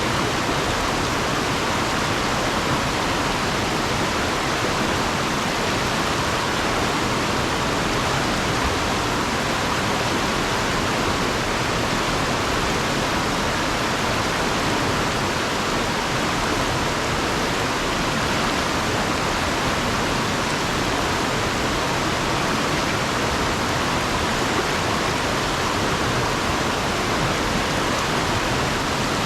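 Fast river water rushing over and around rocks, a steady, unbroken roar of moving water.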